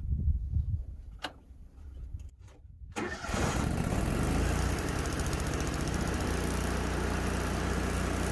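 A stick welding machine being switched on: a few clicks, then about three seconds in it starts up and runs with a steady hum and machine noise.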